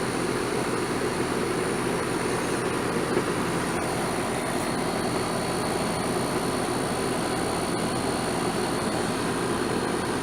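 Outdoor air-conditioner condensing unit running steadily: an even fan noise with a steady low compressor hum.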